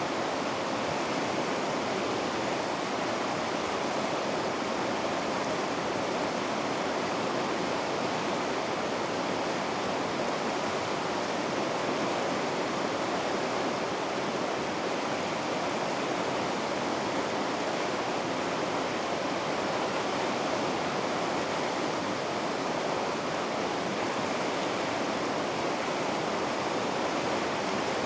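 River rapids rushing: a steady, even sound of fast water that stays unchanged throughout.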